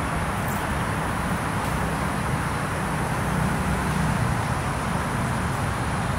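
Steady low background rumble and hiss, with no distinct pecking taps standing out.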